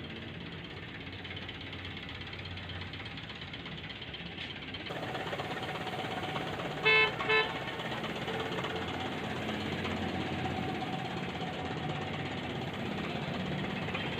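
Two short vehicle horn toots, about half a second apart, over a steady background hum that grows louder about five seconds in.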